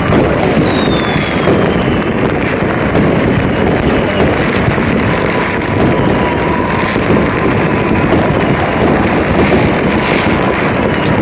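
Dense, continuous barrage of fireworks and firecrackers, with countless bursts and pops overlapping into one steady loud crackle and rumble. A falling whistle sounds about a second in, and a faint steady high tone runs through the second half.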